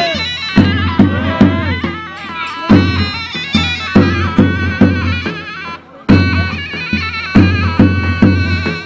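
Turkish folk dance music: a loud, reedy wind instrument plays a wavering melody over regular drum beats, pausing briefly about two-thirds of the way in before starting again.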